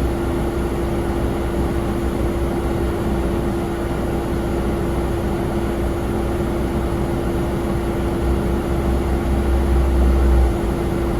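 Steady drone of a jet airliner on the ground, with a constant hum held throughout. A deeper rumble swells about eight seconds in and cuts off abruptly near the end.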